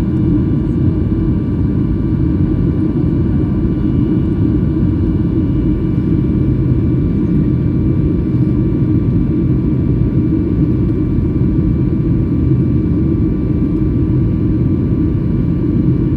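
Steady jet airliner noise: a deep, even rumble with a few faint steady whining tones above it, holding constant without rising or falling.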